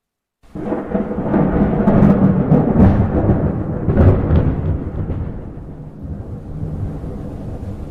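Thunder starting suddenly about half a second in: a loud deep rumble with several sharp cracks over the next few seconds, then a rolling rumble that slowly dies down.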